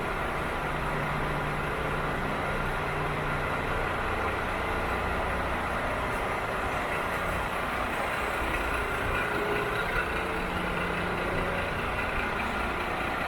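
Iveco Stralis Hi-Way's 460 bhp turbocharged diesel engine idling steadily.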